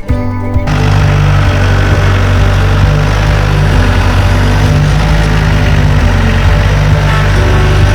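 Engine of a Norwood HD 38 portable sawmill running steadily at speed, coming in suddenly right at the start.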